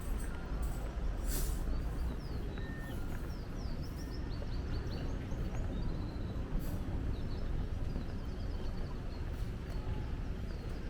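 Small birds chirping in quick, repeated high notes over a steady low rumble of outdoor background noise.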